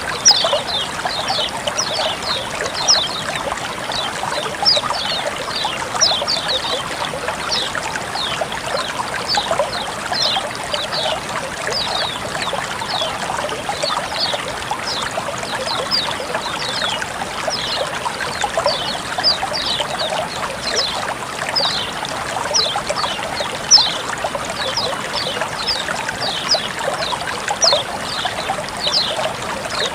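Flowing water trickling and splashing steadily, with a quick, unbroken patter of short, high falling chirps over it.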